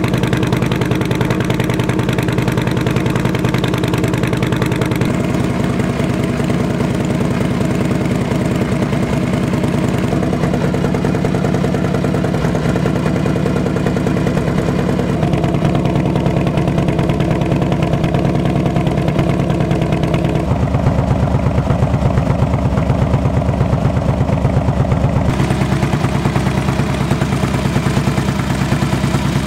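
Harley-Davidson Street Glide's air-cooled V-twin idling steadily, a fast, even pulsing beat from the exhaust.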